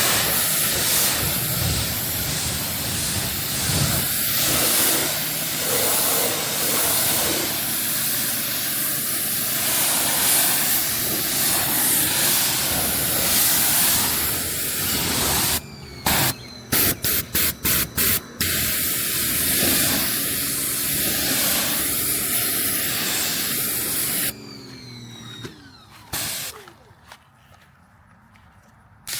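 Water spraying hard onto a car during a wash, a steady loud hiss. It cuts out several times in quick succession a little past the middle, then falls away to a much quieter level for the last few seconds.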